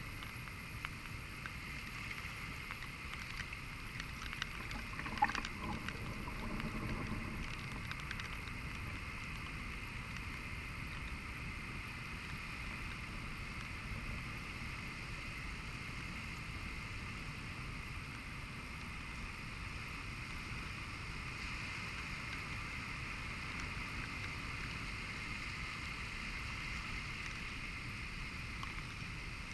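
Pacific Ocean surf washing on a sandy beach, a steady wash of noise, with a brief click about five seconds in.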